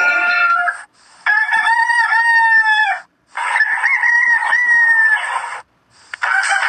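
Rooster crowing: two full crows of about two seconds each with short gaps between them, and a third crow starting near the end.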